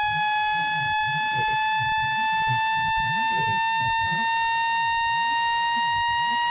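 Electronic speaker-cleaning tone: a single high, buzzy tone rising slowly and evenly in pitch, played to shake water and dust out of a phone speaker.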